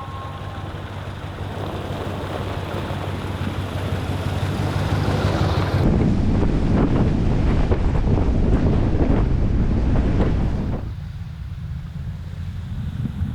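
A truck's engine running under a rushing wind noise on the microphone. The rush builds, is loudest for several seconds in the middle, then drops off suddenly.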